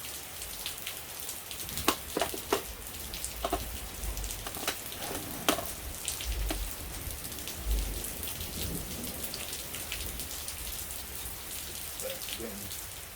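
Steady rain falling on a surface, with scattered sharp drips and taps throughout.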